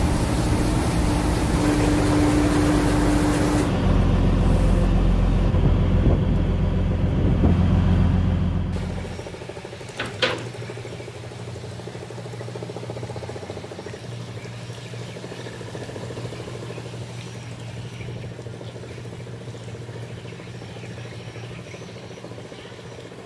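Cargo boat's engine running steadily: a loud low rumble for about nine seconds, then a quieter steady hum. A brief sharp squeak cuts through about ten seconds in.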